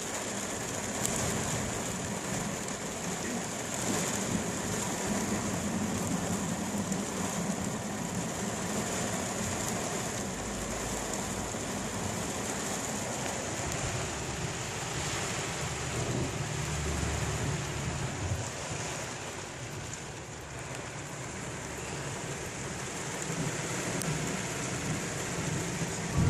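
Steady rain falling on a car's roof and windshield, heard from inside the cabin, with a low rumble of thunder about two-thirds of the way through.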